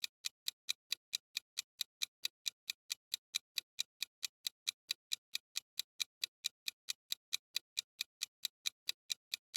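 Countdown-timer ticking sound effect: evenly spaced, bright clock-like ticks, about four to five a second.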